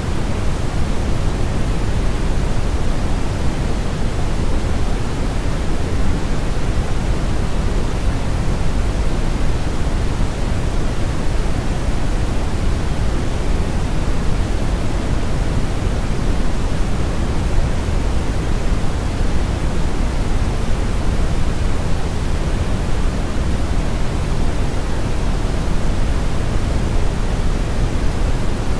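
Steady brown noise: a constant, even hiss-rumble, heaviest in the bass and dull in the treble, without any change.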